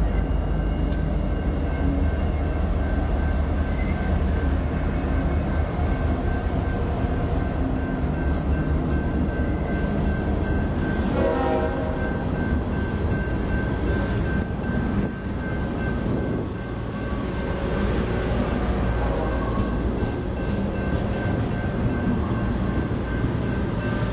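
Diesel-hauled freight train passing close by: the heavy low rumble of the locomotives gives way to the rolling wheel noise of the freight cars, with a steady high whine over it.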